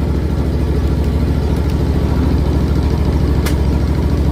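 John Deere X300 riding mower engine running steadily just after a cold start on choke, with a single sharp click about three and a half seconds in.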